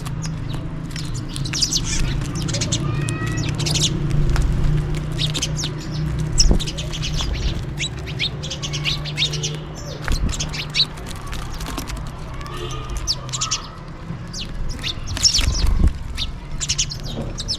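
House sparrows chirping over and over while feeding, many short high chirps in quick runs. A steady low hum lies underneath and fades out about three quarters of the way through.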